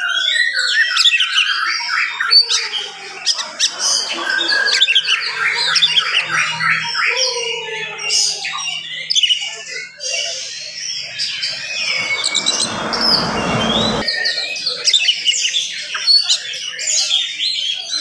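Oriental magpie-robin (kacer) in full song, a fast, dense run of varied whistles, chirps and harsh notes with hardly a pause. About twelve seconds in, a brief rushing noise lasting about two seconds sounds under it.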